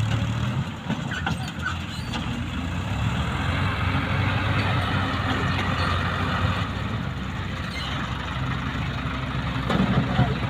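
Tractor diesel engine running steadily with a constant low hum.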